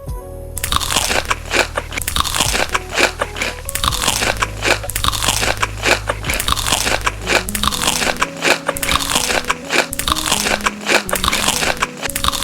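Crunchy food being bitten and chewed close to the microphone: a dense, irregular run of crisp crunches starting about half a second in, over soft background music.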